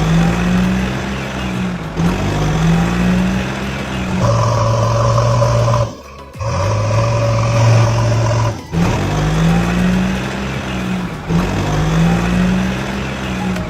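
Engine sound revving up and down in swells about two seconds long, with a steadier stretch in the middle that cuts out briefly partway through.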